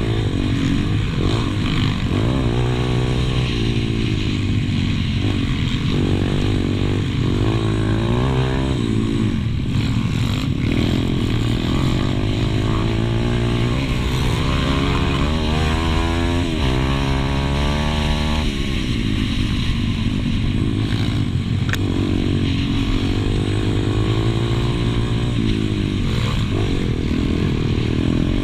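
Pit bike engine at race pace, heard on board: it repeatedly climbs in pitch under acceleration and drops back at gear changes and corners, over a steady hiss of wind and engine noise.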